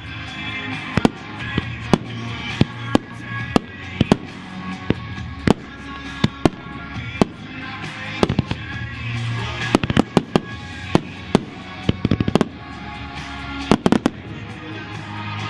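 Consumer fireworks going off: an irregular string of sharp bangs, roughly two a second, with tight clusters about two-thirds of the way through and again near the end, over background music.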